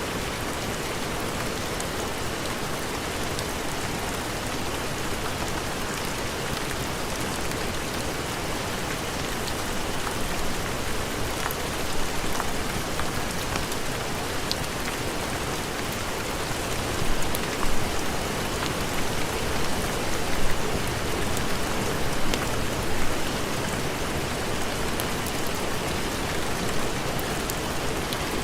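Steady heavy rain, a dense even hiss, with a few brief louder spikes in the second half.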